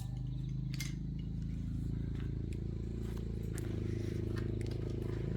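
A motor running steadily at a low pitch, with a few light clicks and clinks over it.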